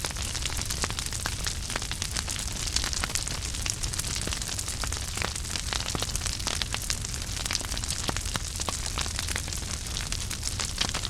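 Wood fire crackling in a fireplace, with irregular sharp pops and snaps over a steady hiss of flame.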